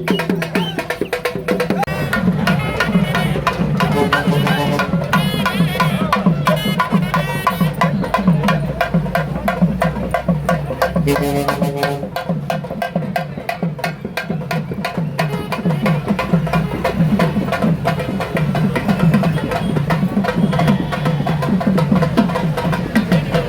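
Fast, continuous drumming by a group of traditional procession drums, with crowd voices mixed in.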